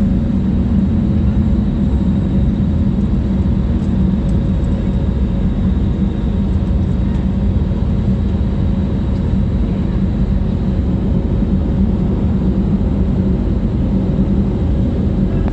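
Aeroplane engines running with a loud, steady low drone during takeoff.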